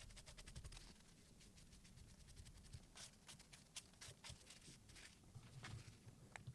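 Faint scratchy strokes of a silicon carbide water stone on a guided sharpening system rubbing along a chef knife's edge, quick and dense in the first second, then sparser.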